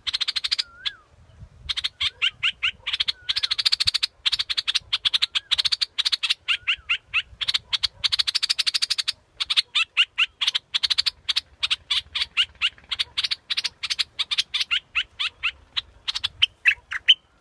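Bulbul calling: bouts of fast, buzzy chattering trills mixed with short whistled notes, broken by brief pauses, played as a decoy call to lure the bird.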